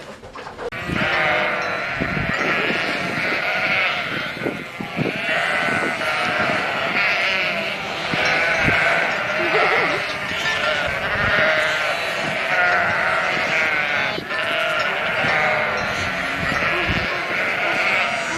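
A flock of sheep bleating, with many calls overlapping continuously.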